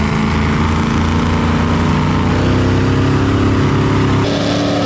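Big truck engines running hard under load, their pitch climbing slowly, with an abrupt change in the sound a little after four seconds.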